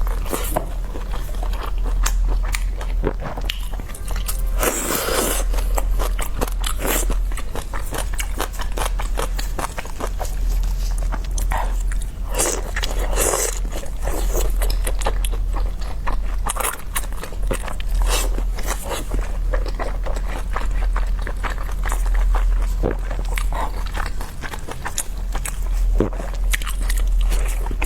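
Close-miked eating sounds of steamed dumplings: biting and chewing, with many small wet mouth clicks and a few longer, louder bites. A steady low hum runs underneath.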